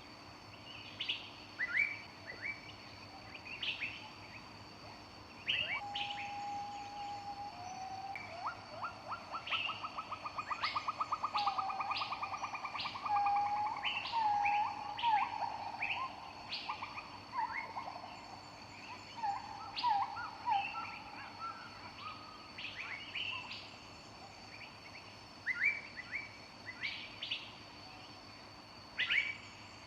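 Several wild birds singing and calling: short, repeated high chirps throughout, a fast trill about nine seconds in, and clear whistled notes through the middle. A steady faint high-pitched tone runs underneath.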